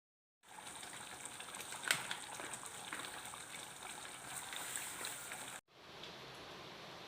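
Water trickling, with a noisy hiss full of small crackling clicks and one sharp click about two seconds in. The sound drops out for an instant just after five seconds, and a steadier hiss follows.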